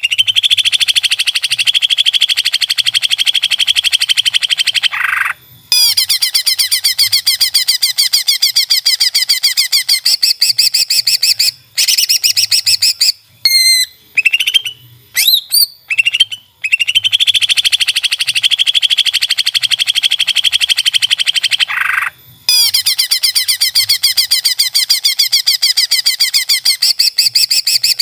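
Cucak ijo (greater green leafbird) singing loudly. Long, very fast trills alternate with short chattering and whistled notes, and the same sequence repeats about every eleven seconds.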